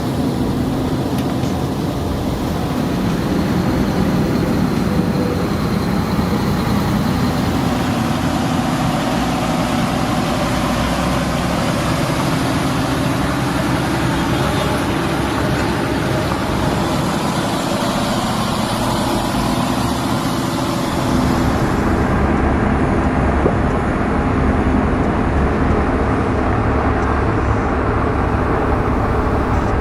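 Heavy truck engine running steadily with road noise. About two-thirds of the way through, the sound turns deeper and duller.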